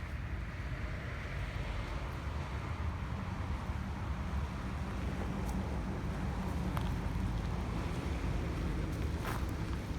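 Steady outdoor noise: a low rumble under a hiss, with a few faint clicks.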